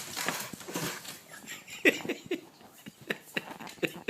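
A dog making a run of short, quick sounds, a few louder ones about two seconds in, then repeating about three to four times a second.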